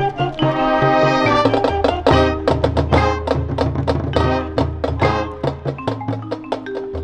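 High school marching band playing: brass chords over front-ensemble and drumline percussion, with a run of sharp percussion strikes through the middle.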